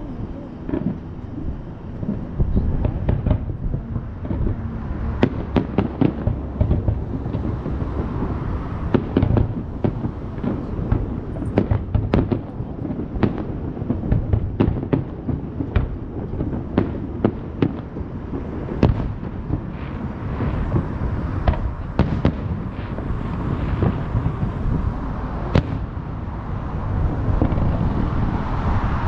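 Aerial fireworks going off in quick succession: many sharp bangs and crackles, dozens across the stretch, over a continuous low rumble of bursts.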